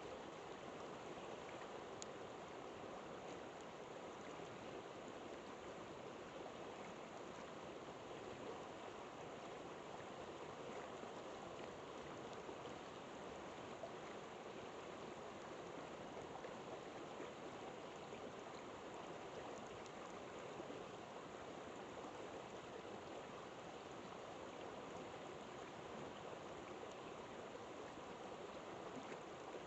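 River water flowing steadily, a fairly quiet continuous rushing, with a few faint crackles from a campfire.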